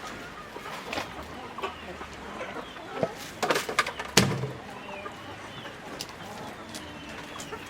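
Chickens clucking, with several sharp knocks and rattles scattered through, the loudest just past halfway.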